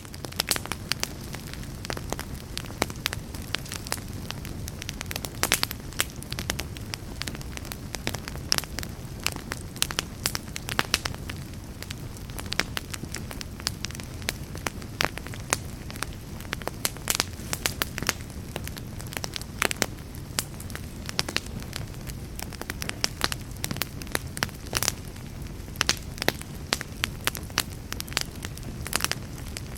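Logs burning in a fireplace: frequent, irregular sharp crackles and pops over a steady low rumble of the flames.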